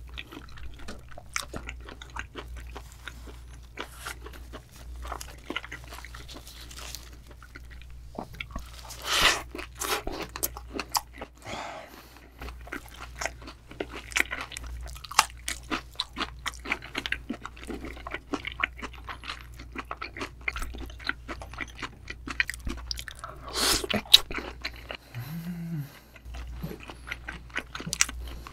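Close-miked chewing of a leaf wrap (ssam) of raw yellowtail sashimi: wet, crunchy chewing with many small mouth clicks. There are two louder bursts about 9 and 24 seconds in, and a short hum about 25 seconds in.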